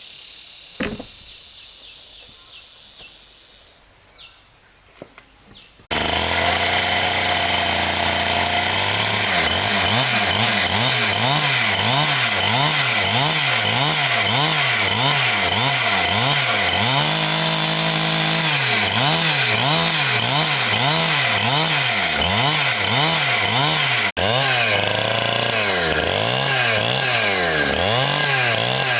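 A chainsaw starts running about six seconds in. Its engine note rises and falls in a steady rhythm, about three times every two seconds, as it works through wood, holding steady for a moment near the middle. Before it there are a few light knocks.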